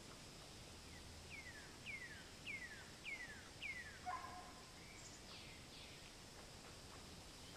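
Faint bird calls: a run of five clear whistles, each sliding down in pitch, about half a second apart. About four seconds in comes a short harsher call, then a few higher falling notes, over a steady faint outdoor hiss.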